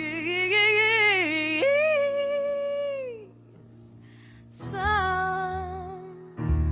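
Song with a woman singing long wordless notes over a low accompaniment. The voice slides and wavers, then tails off about three seconds in. After a brief hush with a faint breath, the singing comes back in over deeper bass notes.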